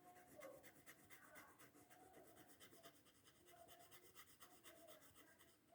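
Faint, quick back-and-forth strokes of a colouring tool on paper as an area of a drawing is filled in with colour, several even strokes a second.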